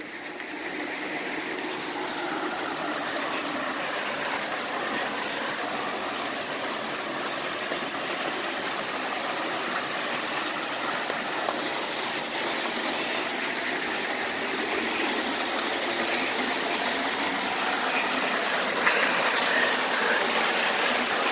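Steady rush of a small waterfall splashing into a pool, growing gradually louder.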